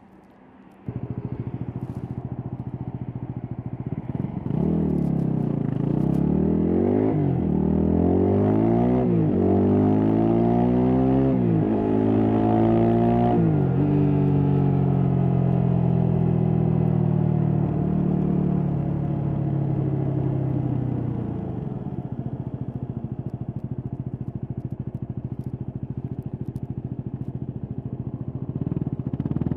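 Stock Yamaha WR250X 250 cc single-cylinder four-stroke engine accelerating up through four gears, the pitch climbing and dropping at each shift, then easing off with falling pitch and running steadily before pulling again near the end. The engine sound cuts in suddenly about a second in.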